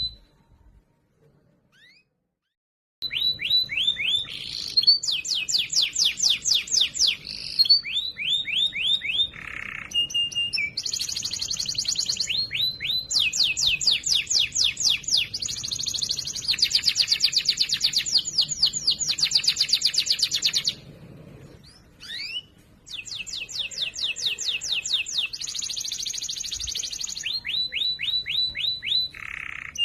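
Domestic canary singing a loud, clear song of fast trills and rolls of rapidly repeated high notes. The song starts about three seconds in and breaks off briefly about two-thirds of the way through.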